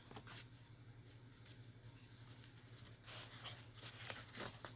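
Near silence: a few faint rustles and ticks of paper being handled, over a low steady hum.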